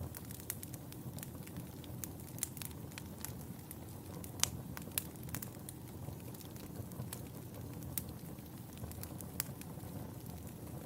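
Wood fire crackling in a fireplace: a steady low rumble of burning with frequent irregular pops and snaps, one sharper pop about halfway through.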